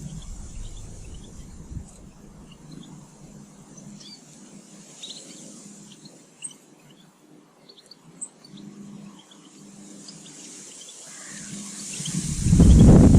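Small garden birds chirping, many short high calls scattered throughout. About twelve seconds in, a gust of wind buffets the microphone with a loud low rumble, the loudest sound.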